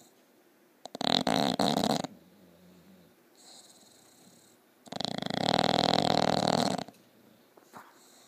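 Bulldog snoring loudly: a snore of about a second near the start and a longer one of about two seconds midway, with a quieter breath between them.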